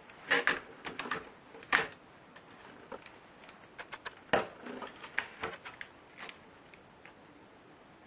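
Irregular clicks and knocks from a laptop and small tools being handled by hand as it is taken apart, with a few louder knocks among lighter taps.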